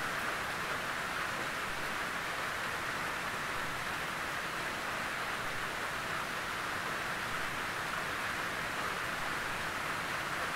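Gentle rain falling steadily on a tin roof: an even, unbroken hiss of drops on the metal, with no thunder.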